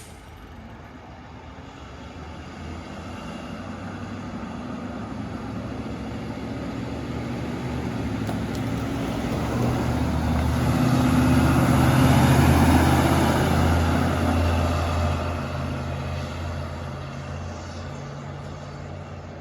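Fire department brush truck driving past: its engine and tyre noise grow steadily louder, peak about twelve seconds in, then fade away.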